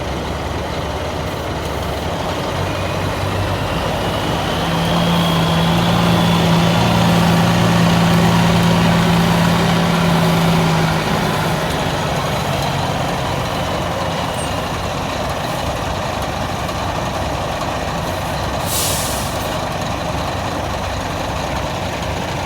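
Kenworth K100 cab-over semi truck's diesel engine running close by, growing louder for several seconds in the middle and then settling. Near the end there is a short hiss of air from the air brakes.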